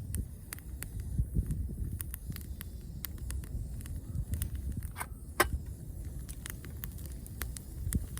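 Wood campfire crackling, with frequent small pops over a low steady rumble; the two loudest pops come about five seconds in.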